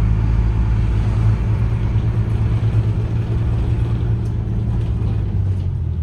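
Tour bus engine and road rumble heard from on board as the bus drives, a steady low drone.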